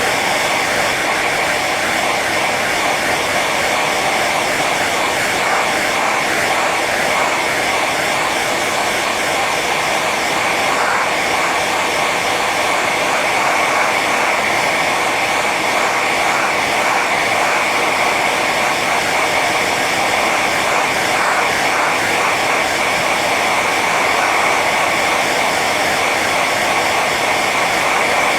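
Hair dryer running on its high setting: a steady rush of blown air with a constant high whine from the fan motor.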